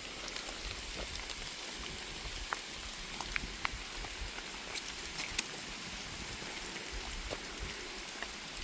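Steady rain falling under a forest canopy: an even hiss with scattered single drops ticking close by.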